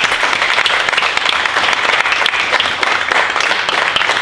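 Congregation applauding, a dense, steady clapping of many hands.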